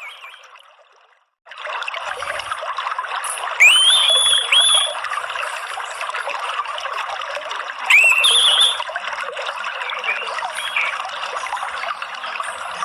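Water trickling and running steadily, with a songbird giving short rising whistles: two about a third of the way in and one more just past halfway. At the start the water fades almost to silence, then cuts back in suddenly about a second and a half in.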